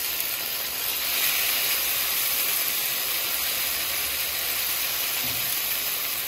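Freshly added chopped tomatoes sizzling in oil in a frying pan: a steady hiss.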